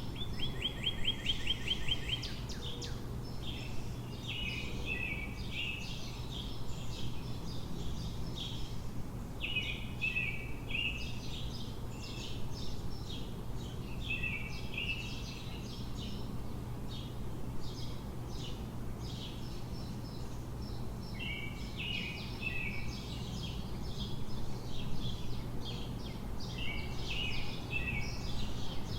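Songbirds singing, one bird repeating a short song phrase every few seconds, with a quick trill of rapid notes at the start, over a steady low city hum.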